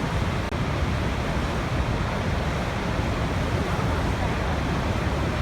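Waterfall rushing: a steady, dense rush of falling water, deepest in the low end, with a momentary dropout about half a second in.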